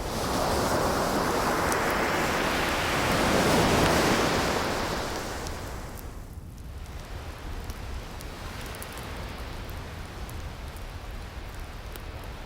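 An ocean wave washing in, swelling over the first few seconds, peaking about four seconds in and fading by about six, then the sea's lower steady wash. Faint crackles of a wood fire are scattered through it.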